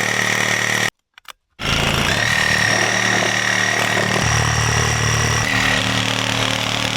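Power saw running steadily as it cuts through the wooden cabin roof. The sound cuts out completely for about half a second at around a second in, then picks up again.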